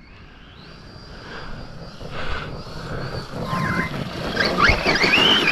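An electric RC truck's brushless motor being driven on 4S, getting louder as it comes closer. From about halfway through, its whine sweeps up and down in pitch as the throttle is worked, over the noise of the tyres on the ground.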